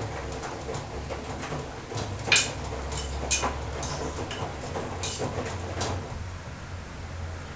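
Washing machine running: a steady low hum with several irregular knocks and clicks from the tumbling drum, the loudest a little over two seconds in.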